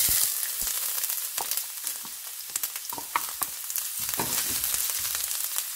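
Chopped ginger sizzling in hot oil in a frying pan: a steady hiss with scattered crackles, loudest as it starts and then settling a little.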